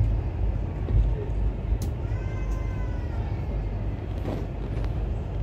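Steady low rumble of a moving Indian Railways express train, heard from inside the passenger coach, with faint voices in the background and a couple of sharp clicks.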